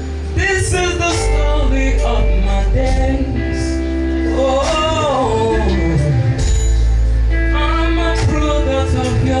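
Live gospel worship music: a voice sings a wavering, drawn-out melody over a band with held bass notes.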